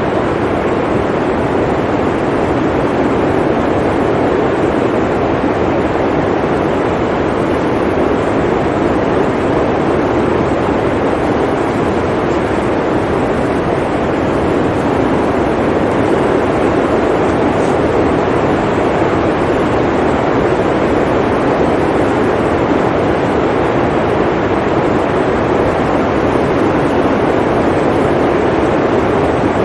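Blizzard wind, a steady, unbroken rush.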